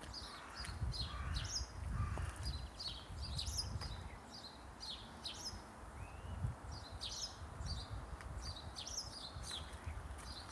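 Small birds chirping repeatedly in short, quick phrases, over a low, uneven rumble.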